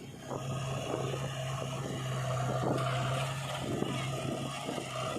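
Heavy diesel engine running steadily at an even hum, with no change in pitch.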